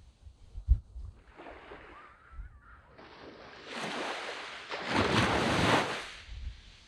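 Waves washing onto a sandy beach: a small wash early on, then a larger wave surging in from about four seconds, loudest near the end before it dies away. A brief low thump of wind on the microphone comes about a second in.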